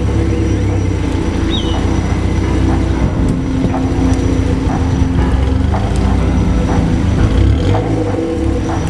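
Honda S2000's four-cylinder engine running steadily as it warms up after its first start on a new intake manifold, with scattered light clicks over the engine note.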